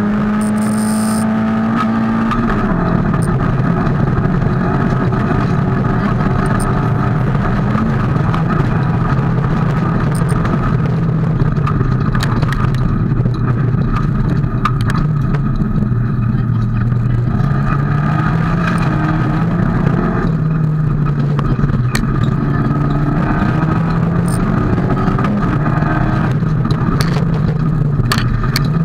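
Fiat Cinquecento Group A rally car's engine heard from inside the cockpit, running hard on a special stage. Its pitch rises and falls as the driver accelerates and lifts, dropping sharply about two seconds in, with scattered sharp clicks.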